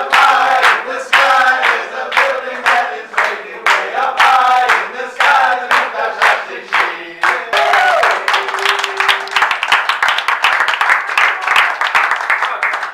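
A group of voices singing together over steady rhythmic hand clapping. About seven seconds in, the singing stops and gives way to applause.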